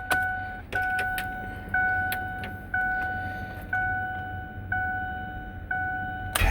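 Ford truck cab warning chime dinging about once a second, seven times, with the ignition switched on ahead of a cold start of the 6.4 diesel. The starter kicks in right at the end.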